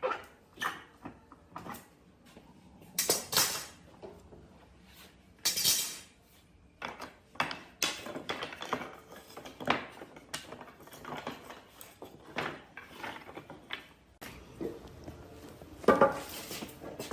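Irregular clinks and knocks of hard objects being handled, scattered with short gaps, a few louder knocks among them.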